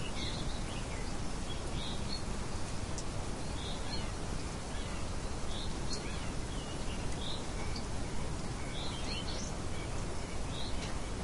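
Birds chirping: short, high chirps repeating about every second, over a steady background hiss.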